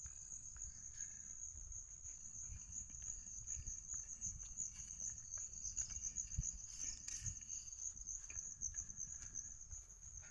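A steady, high-pitched insect trill that runs without a break and pulses slightly, with soft low thumps and rustles underneath.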